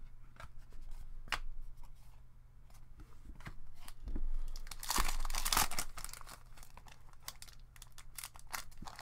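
A hockey card pack's wrapper being torn open by hand, crinkling and crackling, with the loudest stretch of tearing about halfway through; the pack is hard to open.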